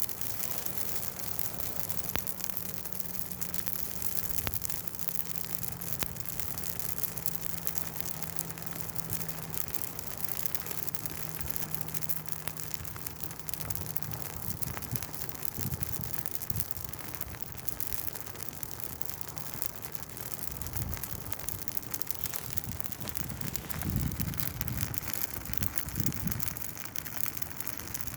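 Dry Douglas fir Christmas tree burning: dense, steady crackling and popping over a hiss. Low rumbles come and go in the second half.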